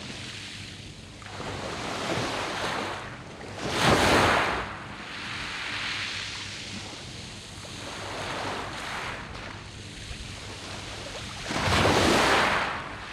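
Sea waves breaking and washing over a round-pebble beach, swelling and ebbing, with two louder breaks about four seconds in and near the end.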